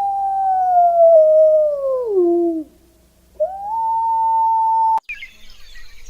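An animal howling: one long, steady, high howl that slides down in pitch and breaks off, then rises back to the same note and holds. About five seconds in it cuts to faint chirping over outdoor background noise.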